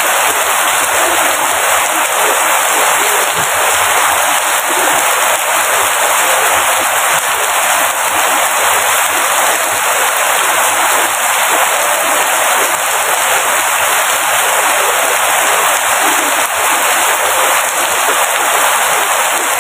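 Steady heavy rain falling, a dense, even hiss with no breaks.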